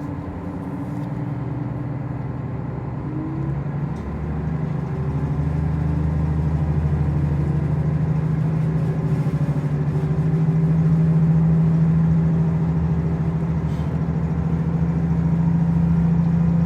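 A diesel railcar's engine running under power, heard from inside the car: its note rises about four seconds in and the sound grows louder, then holds a steady hum as the train runs on.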